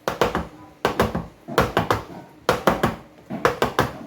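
Repeated sharp knocks and clatters of kitchen utensils and cookware being handled, coming in irregular clusters a few times a second.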